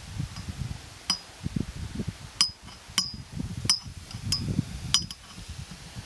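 Short, sharp clinking bird calls from wading birds, about seven in all and spaced irregularly from about a second in, over wind rumbling on the microphone.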